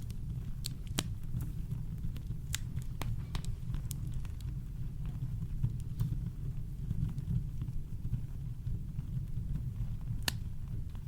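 Campfire crackling: scattered sharp pops and snaps, a few close together early and one stronger pop near the end, over a steady deep low rumble of brown noise.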